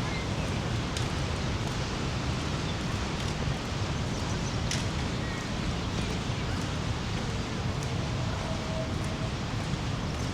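Steady roar of rushing water from the Rhine Falls, an even, unbroken rush heaviest in the low end.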